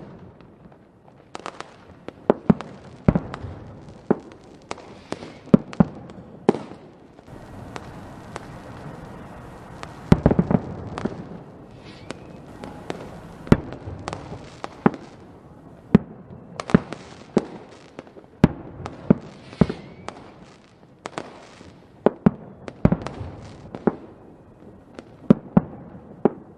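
Fireworks going off: a long run of sharp bangs and pops at irregular intervals, each with a short rumbling tail. About ten seconds in there is a dense burst of rapid cracks, after a few quieter seconds of hiss.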